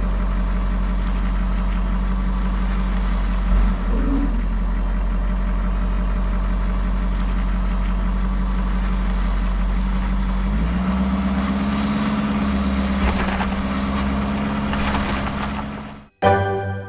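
Truck engine running steadily, its pitch stepping up slightly about two-thirds of the way through, then cutting off suddenly near the end.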